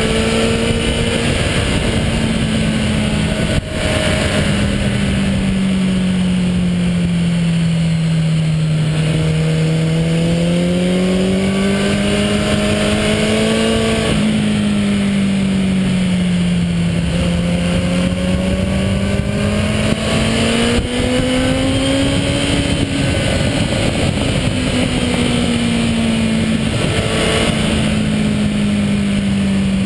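Motorcycle engine running under way, its pitch rising and falling slowly as the bike speeds up and eases off, with a brief break about three and a half seconds in and again near twenty-one seconds, over wind and road noise.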